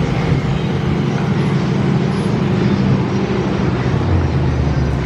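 Steady engine and road noise of a moving car, heard from inside the vehicle.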